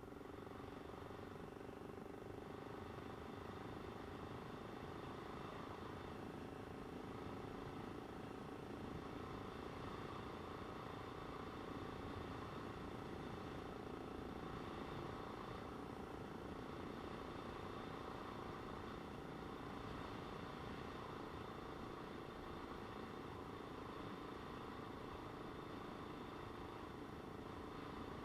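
Motorcycle engine running steadily at an unchanging pitch, with a constant rush of road and wind noise.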